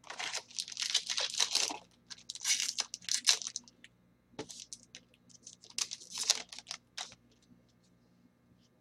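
Foil trading-card pack wrapper being torn open and crinkled by hand, in three bouts of sharp crackling with a single crack in between.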